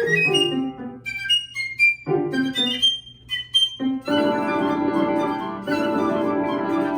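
Flute and piano playing classical chamber music: quick, short high notes with brief pauses, then a long held chord from about four seconds in.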